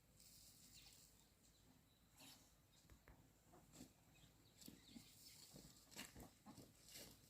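Near silence, with faint scattered clicks and rustles that come more often over the last couple of seconds.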